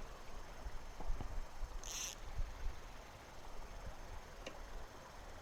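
Quiet outdoor ambience with a low rumble and faint scattered clicks, and one short high-pitched chirp about two seconds in.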